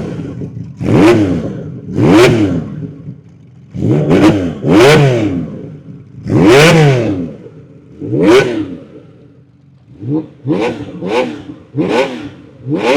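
1979 Honda CBX1000Z's air-cooled inline-six engine, breathing through an aftermarket six-pipe (6-into-6) exhaust, revved in quick blips from a warm idle. About ten revs each rise and fall in pitch, with a longer one around the middle and a quicker run of blips near the end, idling between them.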